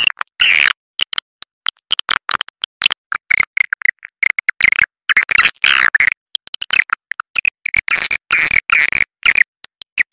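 Swiftlet call lure recording: rapid, choppy twittering chirps and clicks of swiftlets, many in quick succession with short gaps, the kind of sound that swiftlet farmers play to draw swiftlets into a nesting house.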